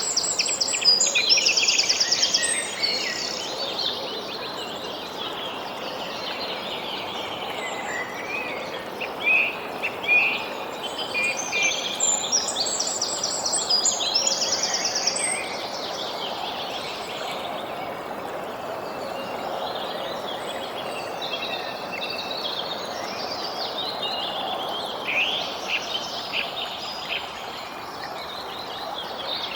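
Songbirds chirping and calling over a steady background hiss, with two fast trills, one about a second in and another about twelve seconds in.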